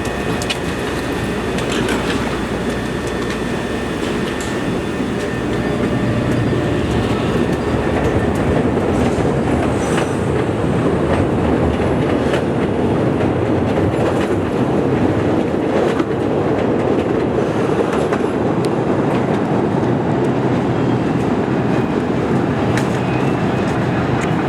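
Budd 2600-series CTA rapid-transit train running on the elevated rails as it pulls away. A steady rumble of wheels on track, with scattered clicks over rail joints, builds over the first several seconds and then holds.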